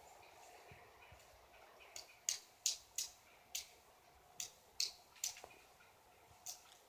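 Pileated woodpecker pecking at wood: about nine sharp, irregularly spaced knocks, starting about two seconds in, over faint background hiss.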